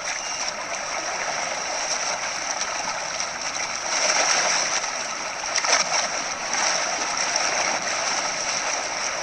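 River water splashing and churning as zebras wade across, with louder splashes about four and six seconds in.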